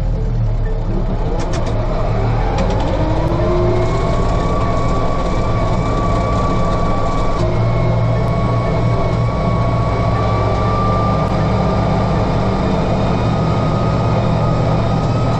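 Engine of a farm vehicle being driven, running steadily, with a whine that rises over the first few seconds as it picks up speed and then holds steady.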